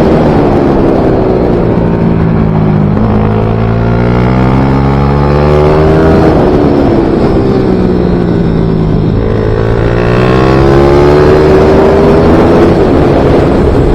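Small racing motorcycle engine of a MiniGP/pit bike running hard on track, its pitch dropping as it slows and climbing again as it accelerates, twice over.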